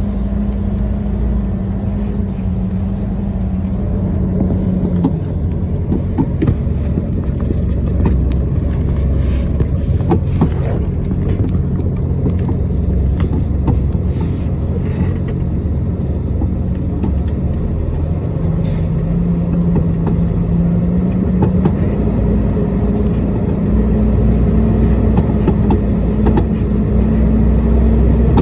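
A motor vehicle's engine running steadily. Its pitch drops about five seconds in and climbs again from about eighteen seconds, with scattered knocks and rattles throughout.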